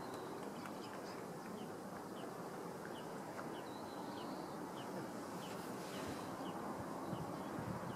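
Steady distant rumble of a shinkansen train running along an elevated viaduct, with a small bird chirping about twice a second over it.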